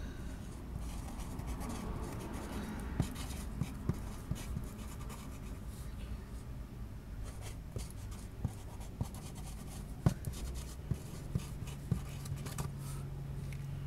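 Freight train of autorack cars rolling past: a low rumble with irregular clicks and clunks from the wheels and cars. A low steady hum joins about nine seconds in.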